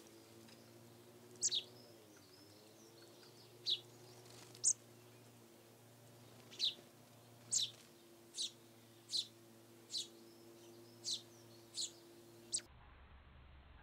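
Small garden bird giving about eleven short, sharp, high call notes, each sweeping downward, spaced roughly a second apart. A steady low hum sits underneath, dipping in pitch briefly about two seconds in.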